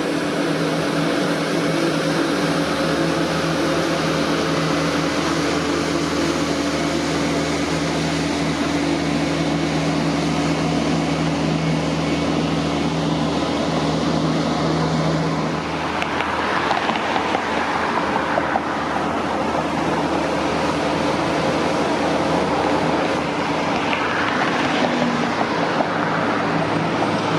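Motor vehicle noise: a steady engine hum with road noise, which turns noisier and brighter about sixteen seconds in.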